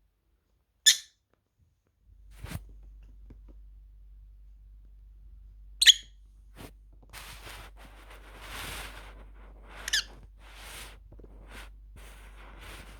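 A pet bird giving three short, sharp, high-pitched calls a few seconds apart, with softer scratchy sounds between them.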